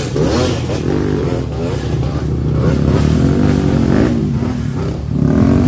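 Off-road trail motorcycle engine revving, its pitch rising and falling again and again.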